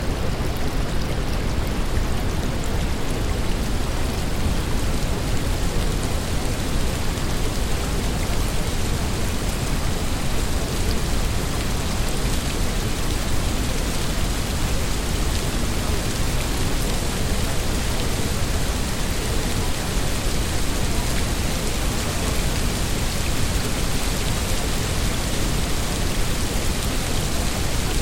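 Steady rain, an even hiss that never breaks or changes.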